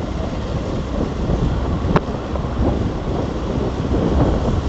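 Wind buffeting the microphone over a steady low rumble of road traffic, with one sharp click about two seconds in.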